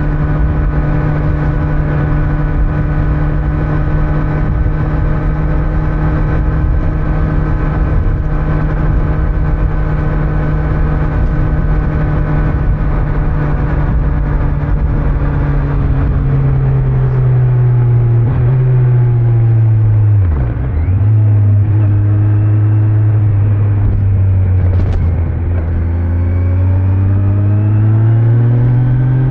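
2025 Kawasaki Z900's inline-four engine on its stock exhaust, running at steady revs while cruising. About halfway through the revs fall as the bike slows, with a brief sharp dip and recovery a little later. Near the end the revs climb again as it accelerates.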